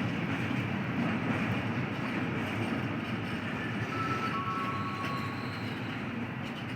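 A train running past, a steady rumbling rush of wheels on rail that eases off slightly near the end, with a faint thin squeal briefly in the middle.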